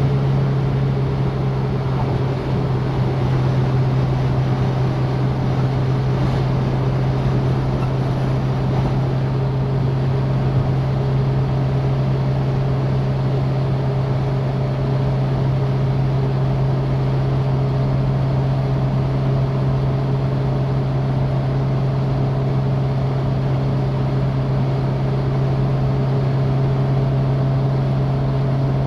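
Citroën DS's four-cylinder engine droning at a constant pitch while cruising at steady speed, with continuous road and wind noise.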